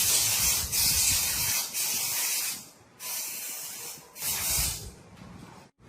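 Pressurised spray hissing in about five bursts, each up to a second long, with short gaps between them.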